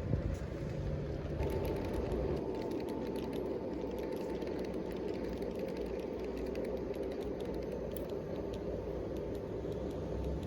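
G scale model train running along its track, its motor and gears whirring steadily with a scatter of small ticks. A thin steady whine sets in about a second and a half in.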